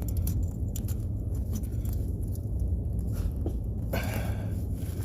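Scattered sharp metallic clicks and scrapes of a hand wrench being fitted onto and worked against a truck starter's mounting bolts, over a steady low hum. A longer scraping stretch comes near the end.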